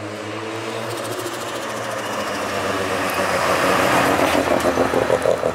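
Mazda RX-7 FC's bridgeported 13B rotary engine running as the car drives up and passes close by, getting louder until near the end.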